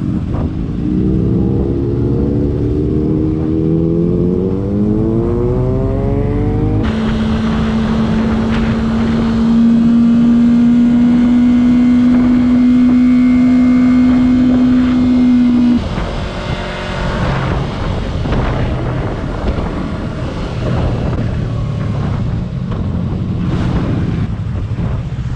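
Motorcycle engine accelerating, its note rising in pitch for the first several seconds, then holding one steady note at cruising speed until it drops away about sixteen seconds in, over a constant rush of wind.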